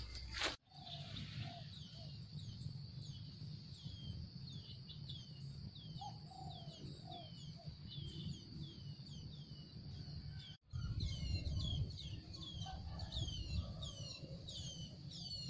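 A bird calling over and over in short falling chirps, about two a second, over a steady high whine and low rumble of wind on the microphone.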